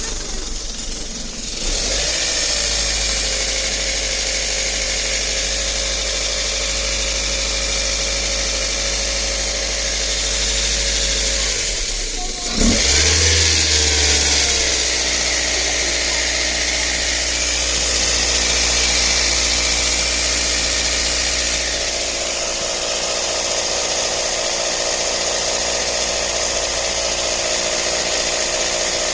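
Mazda Protege5 engine running steadily at idle. The sound changes abruptly about two seconds in, and there is a short knock about halfway through, after which it runs on.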